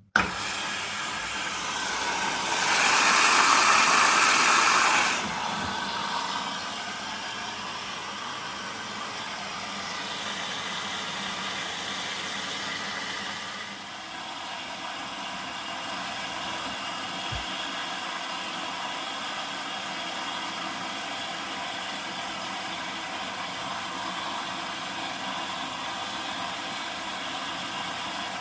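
Zanussi washing machine starting its cycle with water rushing in, a sudden hiss that is loudest for a couple of seconds near the start, then a steady hiss with a low hum.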